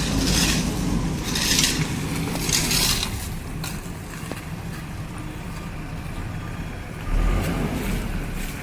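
Backhoe loader's diesel engine running steadily, with three short rushes of noise about a second apart in the first three seconds. About seven seconds in, the engine swells louder as it takes load.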